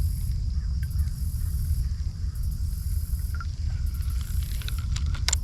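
Outdoor lakeside ambience: a steady low rumble, like wind on the microphone, with insects buzzing in repeating pulses of about a second each. A few sharp clicks come near the end.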